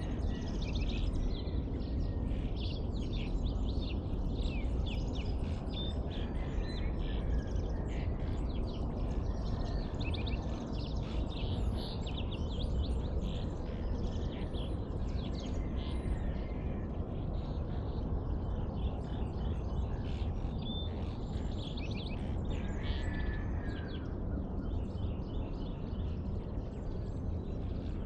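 Dawn chorus: many birds chirping and calling at once, overlapping throughout, over a steady low rumble.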